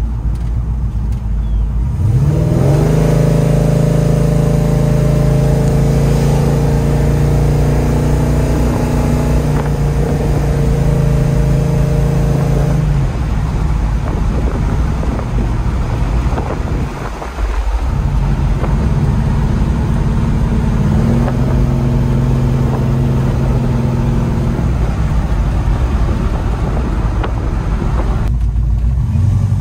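Big-block V8 of a 1970 Chevelle SS 396 tribute pulling away under acceleration, its pitch rising and then holding steady as it cruises. It does this twice, about 2 seconds in and again about 20 seconds in, with a brief drop in the engine sound in between.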